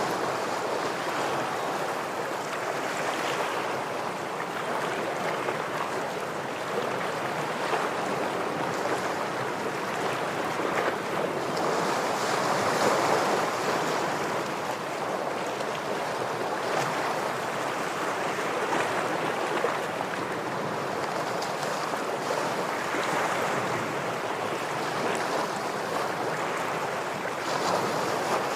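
Ocean surf washing against shoreline rocks: a continuous rush of waves that swells and eases every several seconds.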